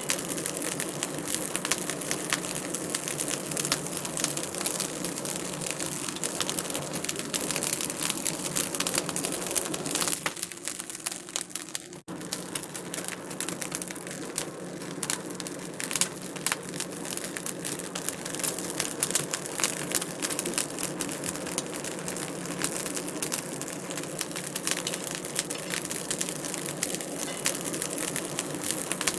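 Wood fire in a fireplace crackling continuously, with many sharp pops and snaps over a steady hiss. It goes briefly quieter about ten seconds in, then cuts out for an instant near twelve seconds.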